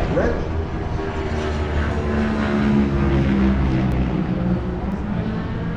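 Racing motorcycle engines running on the track at speed, a steady engine drone.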